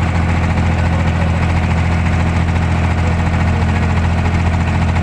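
Boat engine running steadily, heard from on board: a loud, even low hum.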